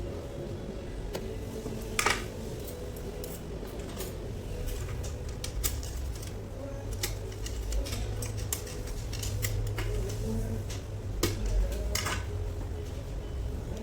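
Metal tools and gearbox parts clicking and clinking against each other now and then, the sharpest knocks about 2 seconds in and twice near the end, over a steady low hum.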